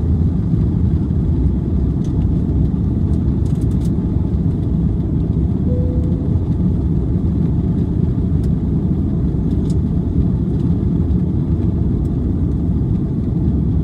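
Steady low roar inside the cabin of an Airbus A330 airliner, its jet engines and airflow in the climb shortly after takeoff. A short faint tone sounds about six seconds in.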